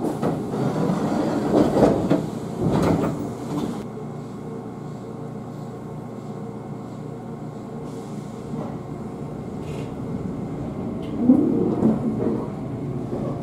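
Inside a Shizuoka Railway 1000-series electric train car: a few clunks and rattles in the first four seconds, then a steady low rumble, with a louder swell about eleven seconds in.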